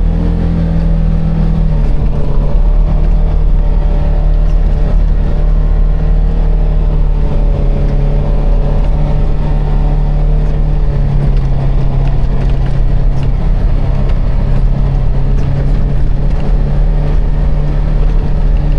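Side-by-side UTV engine running under way, a loud steady drone that settles to a slightly lower pitch about two seconds in.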